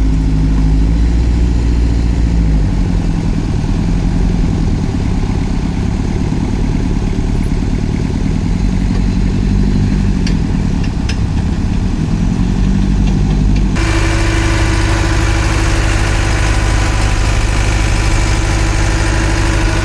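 Diesel engine of a Svedala Demag DF65C crawler asphalt paver running, its engine speed wavering up and down, with a few faint clicks. About fourteen seconds in the sound changes abruptly to a steady run with a constant hum.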